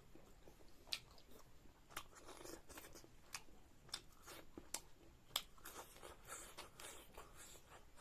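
A person chewing and crunching food close to the microphone, with irregular sharp mouth clicks and smacks.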